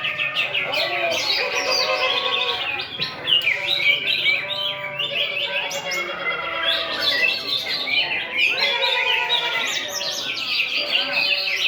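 Several cucak ijo (greater green leafbirds) singing at once: a dense, continuous chorus of overlapping chirps, trills and whistled glides.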